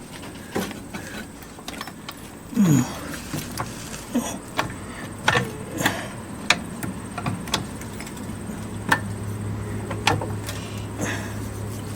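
Irregular metallic clanks and knocks, about ten spread unevenly, from tools worked against the frame of a car while a hydraulic ram straightens a bent section. A steady low hum comes in about two-thirds of the way through.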